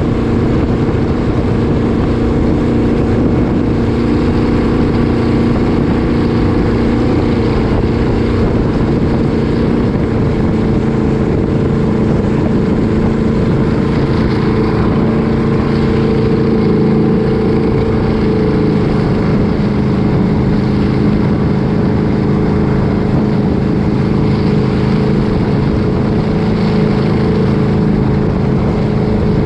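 Engine running steadily and loud, with a constant drone whose pitch shifts slightly a few times.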